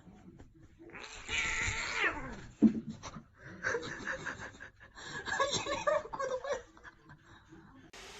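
A cat gives one long meow that falls in pitch about a second in, followed by a person laughing in quick bursts.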